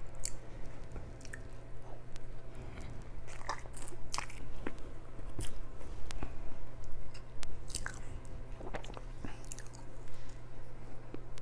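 Close-up chewing and biting of food, with wet mouth smacks and clicks scattered throughout. Under it runs the steady low hum of a refrigerator.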